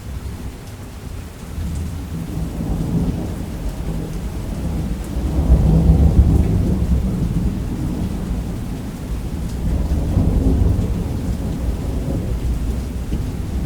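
Rolling thunder over steady heavy rain. A deep rumble builds a couple of seconds in, peaks around the middle, then eases and swells again near the end.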